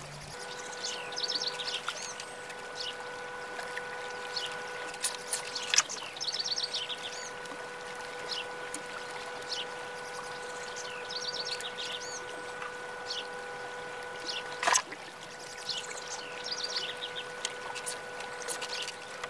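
Short chirping calls, bird-like, repeating every couple of seconds over a steady hum of several held tones, with a sharp tap near the middle and a louder one about three quarters of the way through.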